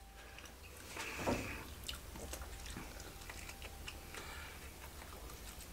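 Two people biting and chewing smoked pork spare ribs, faint, with scattered small clicks as the meat is pulled off the bone.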